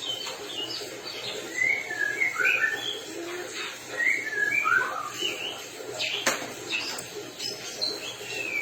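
White-rumped shama, just through its molt, singing: a run of short clear whistled notes and slurred phrases, repeated again and again. Two sharp clicks come a little after six seconds in.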